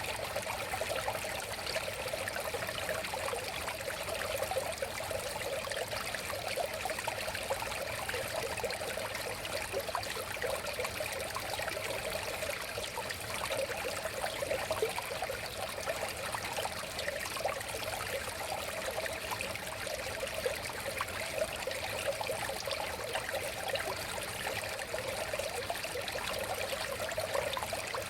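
River water flowing and babbling steadily, with many small splashes and gurgles.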